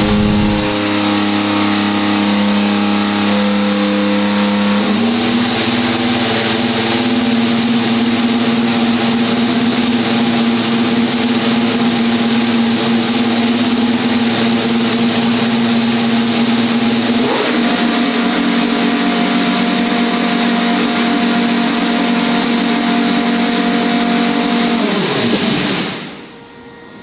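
Ferrari SF-25 Formula 1 car's 1.6-litre turbocharged V6 running at its first fire-up, held at steady revs. The revs step up twice, about five seconds in and again past halfway. Near the end the engine winds down and shuts off.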